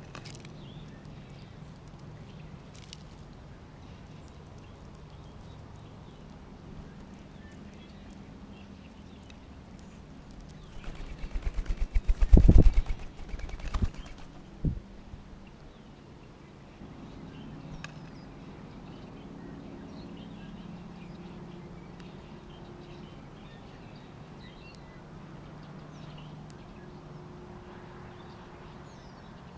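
A small songbird's wings fluttering right at the microphone as it lands on or leaves the feeder, a rapid run of wingbeats for about three seconds in the middle, followed by a couple of sharp clicks. Faint bird chirps are heard in the background.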